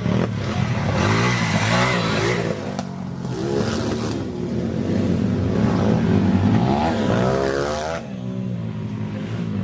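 Dirt bike engines revving up and down, the pitch rising and falling again and again as the throttle is worked. The level drops briefly about three seconds in and again near the end.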